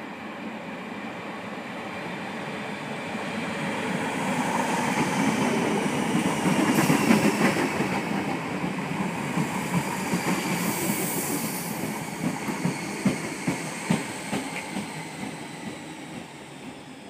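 Multiple-unit passenger train approaching out of a tunnel and passing close by, getting louder to a peak about seven seconds in, with a thin high whine and some wheel squeal. As the carriages go by, the wheels clack over rail joints in a quick run of knocks, then the sound fades as the train runs on along the platform.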